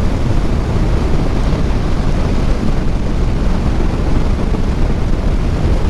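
Steady wind rushing over the microphone of a moving motorcycle, with the bike's running noise underneath.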